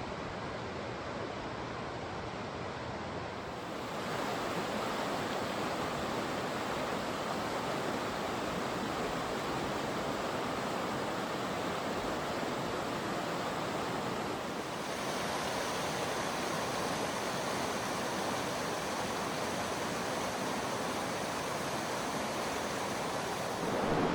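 A river's main channel rushing, a steady even wash of flowing water. It gets louder about four seconds in and turns brighter around fifteen seconds.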